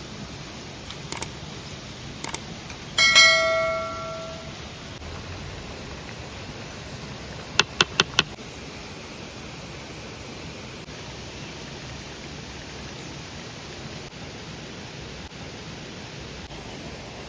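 A metal object struck once, ringing with a bell-like tone that fades over about a second and a half, after two light knocks. About eight seconds in come four quick sharp clicks, over a steady background hiss.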